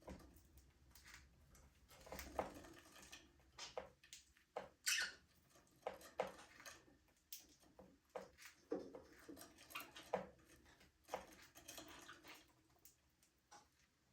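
Budgerigars chirping faintly: scattered short chirps and clicks, with a louder chirp about five seconds in.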